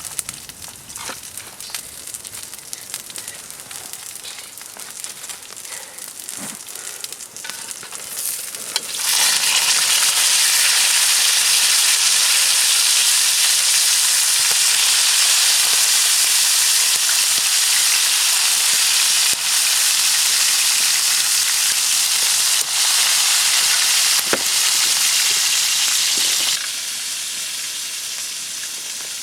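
Food frying in hot oil: a loud, steady sizzle that starts suddenly about a third of the way in, after light crackling and pattering, and drops to a quieter sizzle near the end.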